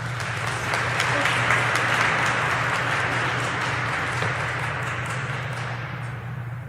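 Audience applauding: clapping builds in the first second, holds, and dies away near the end, over a steady low hum.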